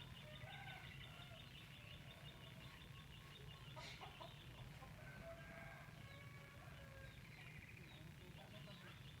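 Faint outdoor ambience: a steady high, rapid trill with scattered short distant bird calls.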